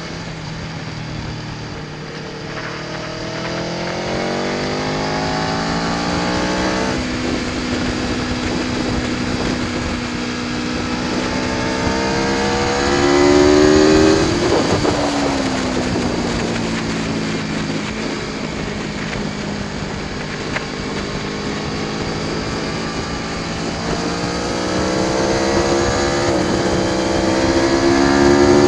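Aprilia Tuono V4 1100 Factory's V4 engine revving up and down: it climbs in pitch, drops back about seven seconds in and climbs again to a peak about halfway through. It then falls off, runs steadier for several seconds and revs up again near the end.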